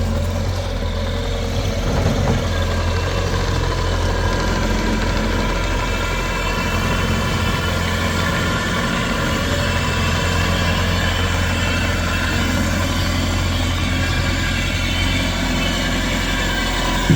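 Bobcat T590 compact track loader's Kubota four-cylinder turbo-diesel running steadily, not yet warmed up after a cold start.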